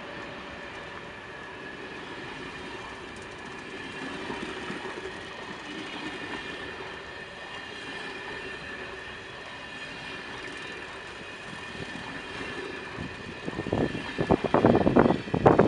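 Empty timber stake wagons of a freight train rolling steadily past, with a faint high wheel squeal held over the rolling noise. Near the end loud irregular gusts of wind buffet the microphone and drown the train.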